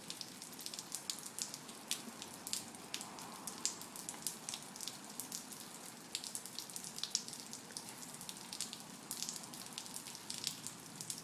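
Rain falling, a steady hiss with many individual drops ticking sharply close by, irregular throughout.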